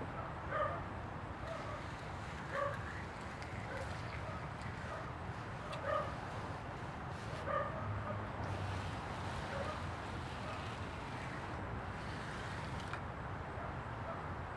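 A dog barking, four main barks a couple of seconds apart with a few fainter ones between, over steady background noise.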